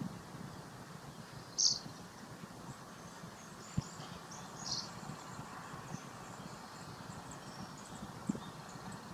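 Two short, high-pitched bird calls about three seconds apart, with faint chirps around them, over steady outdoor background noise.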